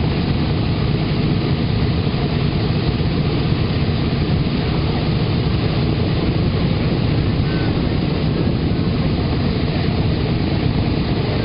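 Four Wright R-1820 Cyclone radial engines of a Boeing B-17 bomber running steadily, a loud, even, low propeller-driven rumble.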